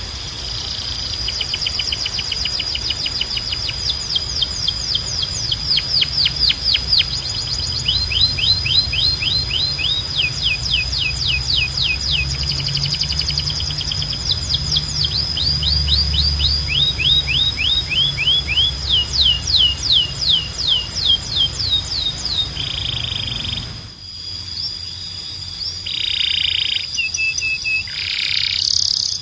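Domestic canary singing rapid trills, long series of quickly repeated downward-sweeping notes that change speed from one series to the next, over a steady high tone. About 24 seconds in, the song switches abruptly to short buzzy notes.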